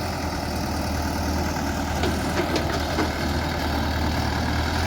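Heavy diesel engine running steadily with a deep hum, with a few faint knocks about halfway through.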